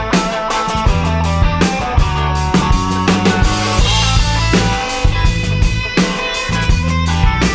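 Instrumental rock passage played by a band: drum kit with bass drum and rimshot hits keeping a steady beat under bass and electric guitar, no vocals.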